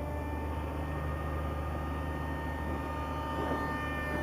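Electric motor and propeller of a radio-controlled model flying wing in flight: a steady high whine made of several tones that drifts slightly lower in pitch.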